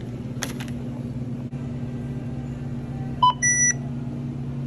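Self-checkout barcode scanner beeping as an item is scanned: a short lower beep, then a longer higher beep, a little over three seconds in. A steady electrical hum runs underneath.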